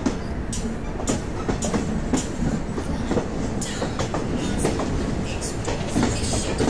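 Train wheels clicking over rail joints, an irregular clatter over a steady rumble.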